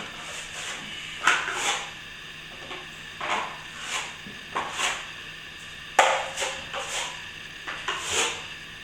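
Steel plastering trowel scraping across setting plaster in a dozen or so short, irregular strokes: the finish coat being polished up with water.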